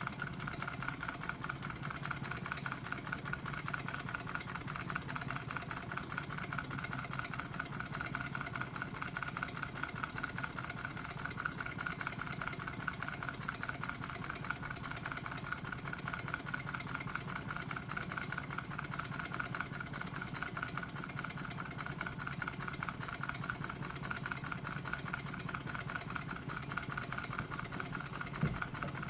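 Homemade Stirling engine with a water-cooled piston running steadily, a fast, even mechanical clatter, with one sharper knock near the end.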